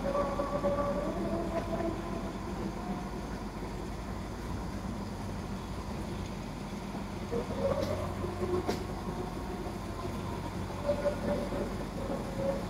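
A passenger train carriage running along the track, heard from an open window: a steady rumble of wheels on rails, with two sharp clicks about two-thirds of the way through.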